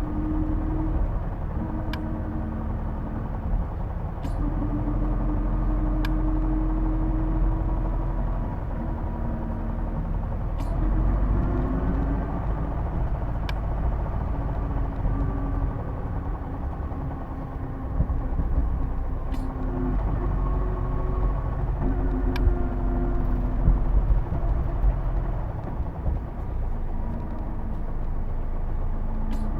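Running sound inside a Hino Blue Ribbon II (PJ-KV234L1) route bus under way: a steady diesel rumble with a humming drivetrain note that shifts in pitch, rising around the middle as the bus speeds up. This is the distinctive transmission noise that the recordist likens to an automatic gearbox. Scattered sharp rattles are heard throughout.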